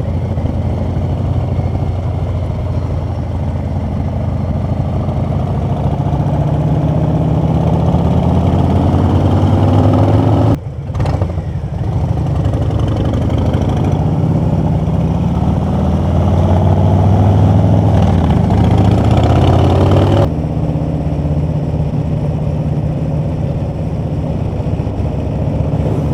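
Harley-Davidson V-twin motorcycle engine pulling the bike up through speed. It climbs in pitch for about ten seconds, dips briefly at a gear change, climbs again for another ten seconds, then eases off to a steady cruise.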